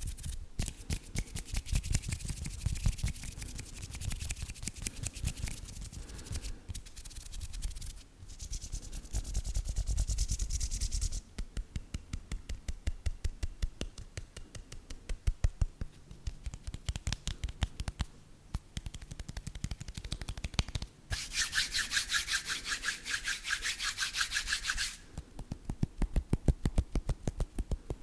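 Close-miked ASMR trigger sounds made on small household objects: fast, dense tapping throughout, with several stretches of scratching and rubbing lasting a few seconds each.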